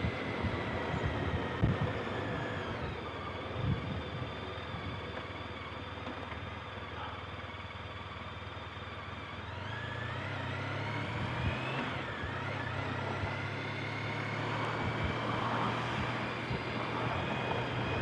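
Motorcycle riding along, heard through a helmet-mounted mic as wind rush mixed with the engine. The engine note falls away over the first few seconds, then rises again about ten seconds in as the bike picks up speed.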